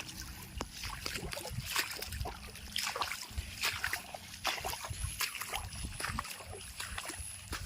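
Water splashing and sloshing in irregular strokes, over an uneven low rumble.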